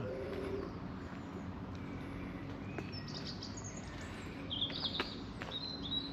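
Songbirds singing in short, high chirping phrases, starting about three seconds in, over a faint steady low hum.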